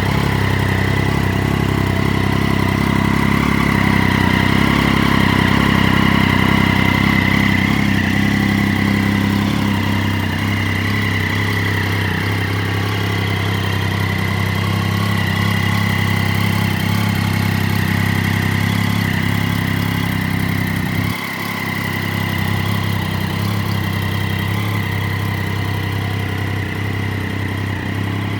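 Triumph Daytona 675's three-cylinder engine idling steadily, with no revving. The sound dips briefly about three-quarters of the way through.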